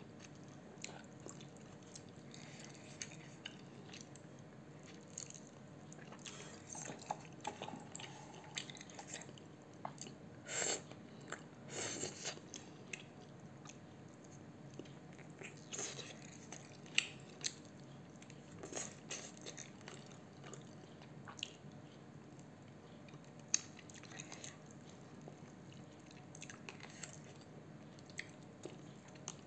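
A person chewing and biting into a piece of chicken, with scattered short, soft crunches and wet mouth sounds.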